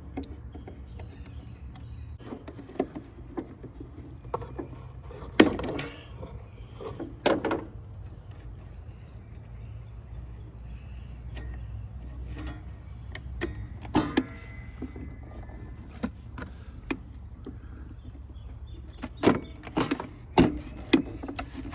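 Scattered clicks, knocks and light metallic clanks of hand work on a riding lawn mower's parts, a few louder knocks among them, over a steady low rumble.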